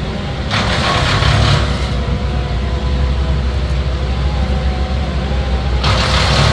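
A large engine running steadily with a low rumble and a wavering hum, broken twice by bursts of harsh rushing noise, about half a second in and again near the end.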